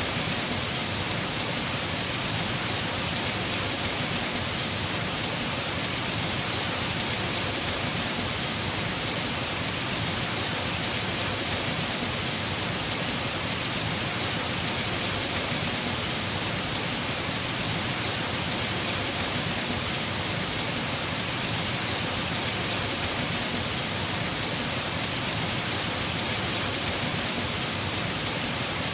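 Heavy rain falling steadily on a house roof, a dense even hiss with no let-up.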